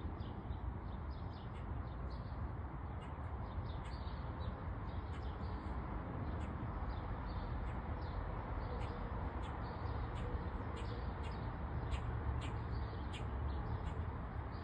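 Small birds chirping in short, rapid, irregular calls, a few each second, over a steady low background rumble.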